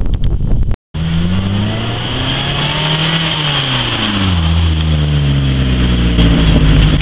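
Mazda Protege four-cylinder engine heard through a DC Sports aftermarket muffler on the stock 1¾-inch exhaust, starting about a second in: the engine is revved up, falls back and settles to a steady idle. It has the low burble the owner compares to a Subaru.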